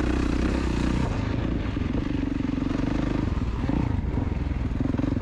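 KTM two-stroke dirt bike engine running under throttle on a motocross track, its note holding steady, easing off briefly about three seconds in, then picking back up.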